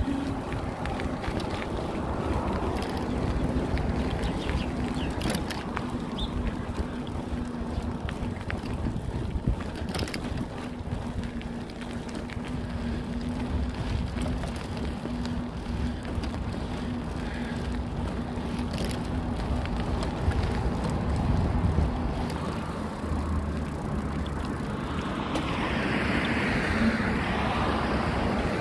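Wind buffeting the microphone and road noise while riding a bicycle, a steady rumbling rush with a faint steady hum and a few sharp clicks. A brighter hiss builds near the end.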